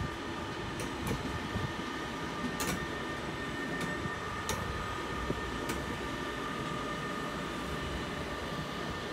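Electric train rolling on the tracks: a steady rumble with a faint, steady high whine and a handful of sharp clicks in the first few seconds.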